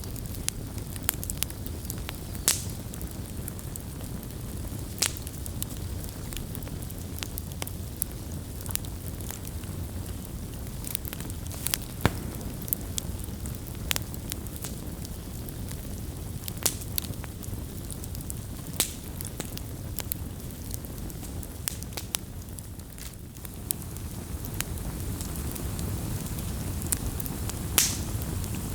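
Campfire crackling: irregular sharp pops and snaps, a few much louder than the rest, over a steady low rumble of the burning fire.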